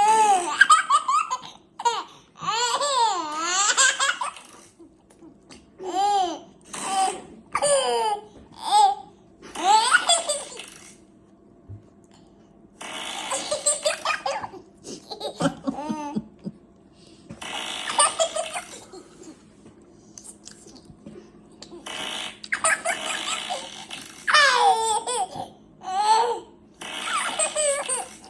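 A baby laughing in repeated bursts of high squeals and giggles, with short pauses between.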